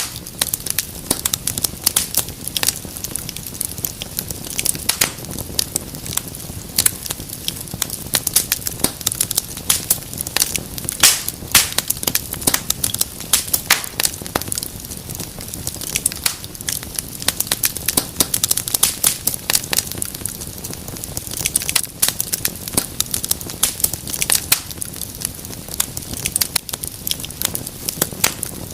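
Wood fire in a fireplace crackling: dense, irregular pops and snaps over a low steady hiss.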